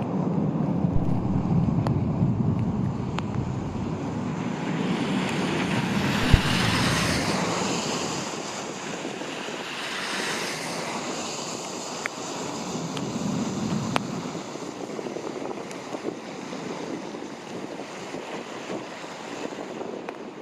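Strong, gusty hurricane wind rushing and buffeting the microphone, with a low rumble. It swells and eases, with the strongest gusts around the middle, and a few sharp ticks.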